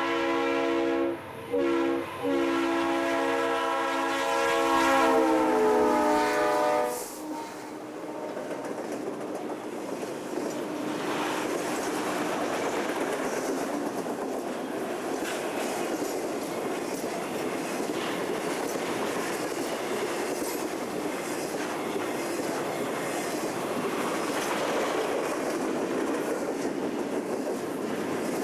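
Conrail diesel locomotive's air horn sounding, with two brief breaks, then held in a long blast that drops in pitch as the locomotive passes and cuts off about seven seconds in. After that the intermodal freight's trailer and double-stack container cars run past, a steady rumble with clickety-clack of wheels over the rail joints.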